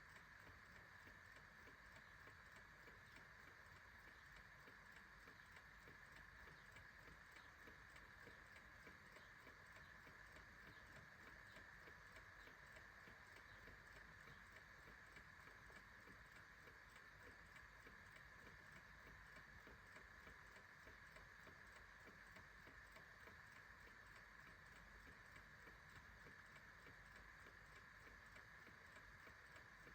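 Clock ticking faintly and steadily in an even rhythm, over a low hiss.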